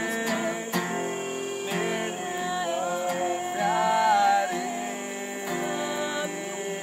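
Acoustic guitar strummed, with a voice singing a line in the middle.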